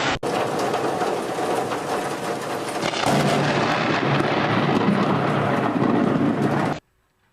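Thunder rumbling loudly over a steady rush of storm noise, growing louder about three seconds in, then cutting off suddenly near the end.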